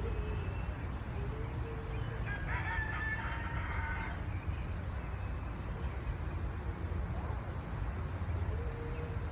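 A rooster crowing once, about two seconds in, over a steady low rumble.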